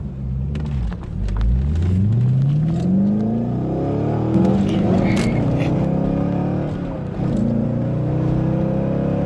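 A Corvette's engine accelerating hard, climbing steadily in pitch from about a second in, then holding at speed. It climbs again near the end.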